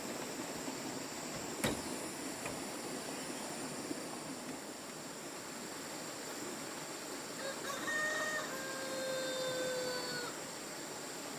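A rooster crowing once, a call of about three seconds with a short opening and a long held, slightly falling note, in the second half, over a steady hiss. A single sharp click sounds about a second and a half in.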